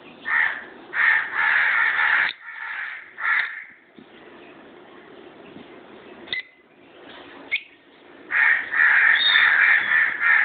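Peach-faced lovebirds giving loud, harsh screeching calls: a run of bursts in the first few seconds, two short sharp chirps in the middle, and a long bout of screeching near the end.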